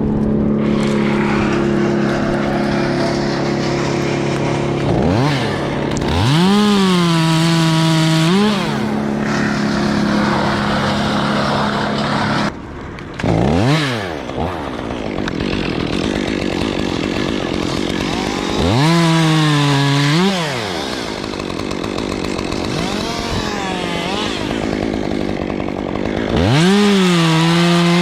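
Chainsaw revved to full throttle in several bursts, its pitch sagging under load as it cuts into the pine, then picking up again before dropping back. A steady engine drone sits underneath for roughly the first half, then stops abruptly.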